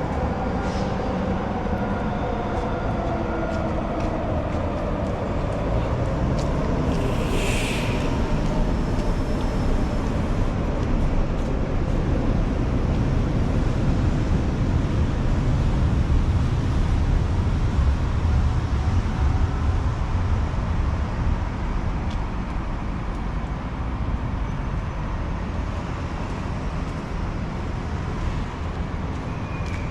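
City street traffic: a steady low rumble of passing vehicles that swells in the middle and eases off toward the end, with engine tones sliding down near the start and a brief hiss about seven seconds in.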